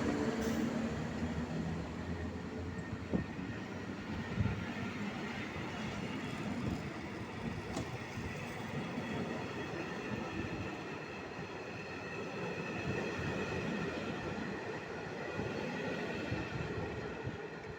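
Train moving along the track, with steady wheel and rail rumble that eases off slightly over the first few seconds. A few sharp knocks come early, and a faint high thin whine appears in the later part.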